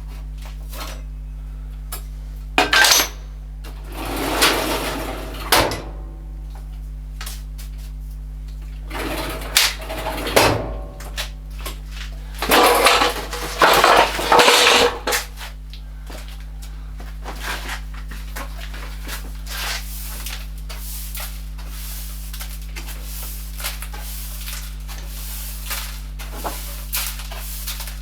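Metal parts and tools being handled in a workshop, clattering and clinking in several loud bursts, then a long stretch of light scraping and small clicks, over a steady low electrical hum.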